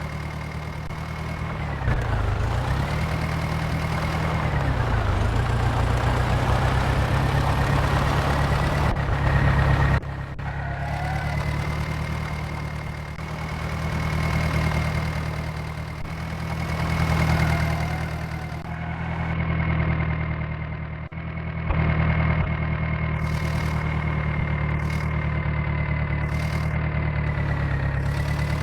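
Mahindra Arjun tractor's diesel engine running steadily, its speed dipping briefly and recovering twice in the first few seconds, with a thin high whine over the engine note. In the middle its loudness swells and falls several times.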